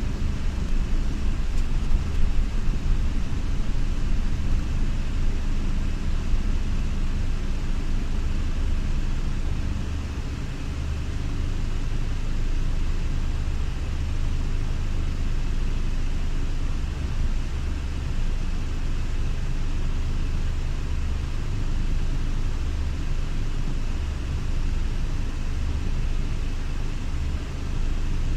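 Scania Irizar i6S coach's diesel engine running steadily at low revs while the coach reverses slowly: a constant low rumble.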